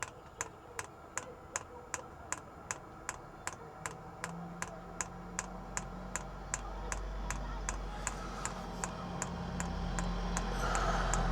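Diesel heater's fuel dosing pump ticking steadily, about two and a half to three clicks a second, as it primes a new fuel line drawn from the van's tank. A low hum comes in about four seconds in and grows louder.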